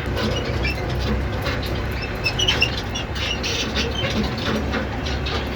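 Compact diesel tractor engine running steadily as it pulls a small ride-on train. A scatter of short, high chirps and squawks comes in around the middle.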